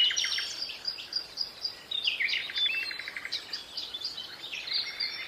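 Several small birds chirping and calling over one another, with a fast trill of repeated notes about halfway through.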